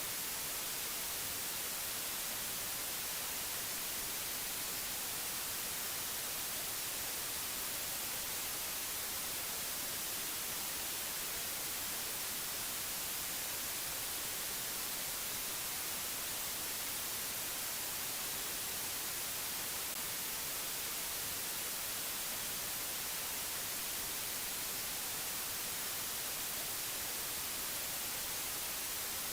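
Steady white-noise hiss, even and unchanging, strongest in the treble.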